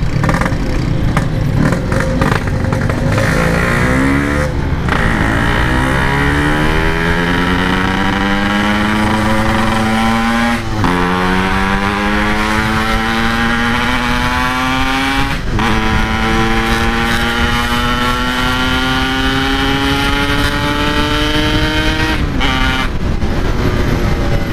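Yamaha RX-King's 135 cc single-cylinder two-stroke engine accelerating hard through the gears with an aftermarket Packing Power exhaust: the exhaust note climbs in pitch in each gear and drops at four upshifts, about 5, 11, 15 and 22 seconds in. Steady wind and road noise underneath.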